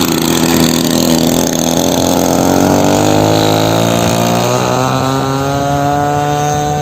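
Model airplane's DLE 20cc single-cylinder two-stroke gasoline engine with a Pitts-style muffler running at high throttle, with a buzzing, many-toned note whose pitch climbs steadily through the second half.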